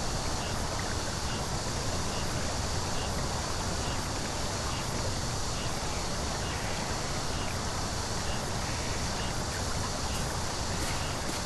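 Steady outdoor background noise, an even rushing hiss with no single source standing out, with a faint high chirp repeating about twice a second.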